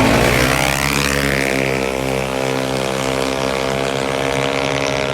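Yamaha Aerox/NMAX-type CVT scooter engines at full throttle on a drag run. The engine note climbs during the first second, then holds at a steady high pitch as the automatic transmission takes over.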